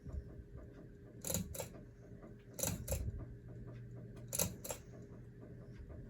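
Hunter Avignon hugger ceiling fan running on medium speed: a low, steady motor hum with pairs of sharp clicks repeating about every one and a half seconds.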